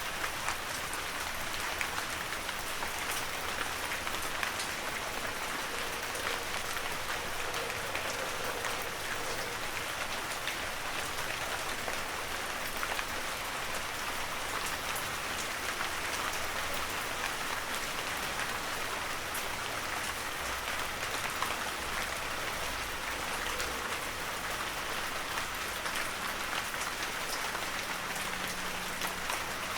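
Heavy rain falling steadily, a dense hiss of drops with scattered individual drop ticks.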